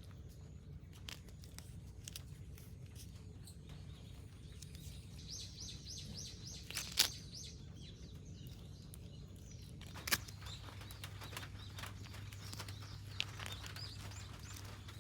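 Small birds chirping in quick runs of short, high notes over a steady low hum, with two sharp clicks partway through.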